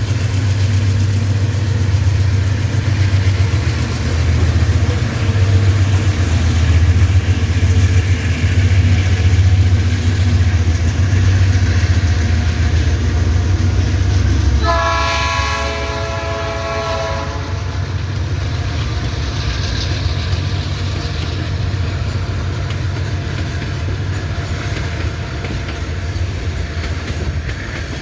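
Loaded freight train passing: the diesel locomotive's heavy low rumble, then one horn blast lasting about three seconds about halfway through, followed by the steady rolling of the sand-laden wagons on the rails.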